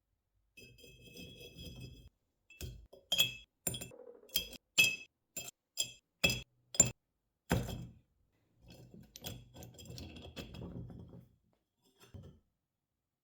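Hard objects clinking together: about nine sharp clinks in quick succession in the middle, between quieter stretches of handling noise.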